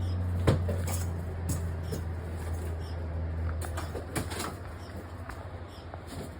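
Scattered knocks and clicks of handling over a steady low hum, with faint high chirps about once a second from nestling birds hidden in the wall.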